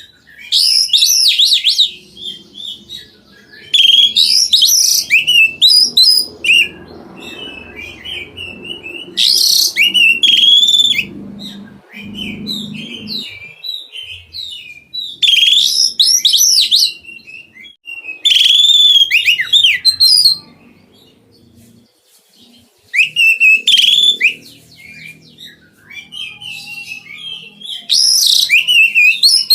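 Oriental magpie-robin (kacer) singing in full voice: about seven loud phrases of varied high whistles and quick notes, each lasting a second or two, with short pauses of a few seconds between them.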